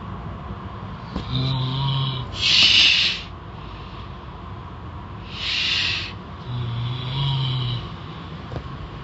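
Snoring: two long breaths a few seconds apart, each with a low buzzing rattle and a loud hissing rush of air.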